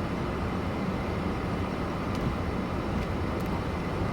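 Car idling: a steady, even rumble and hiss.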